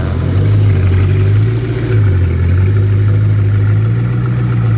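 Bugatti Chiron's quad-turbo W16 engine idling steadily, with a slight dip and rise in pitch about two seconds in.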